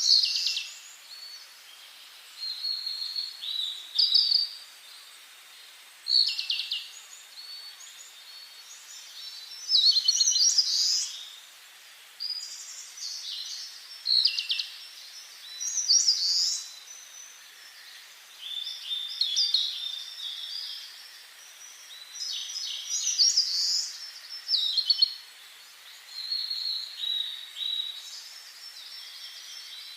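Songbirds singing in short, high-pitched phrases that come every second or two, several phrases overlapping at times, over a steady faint hiss.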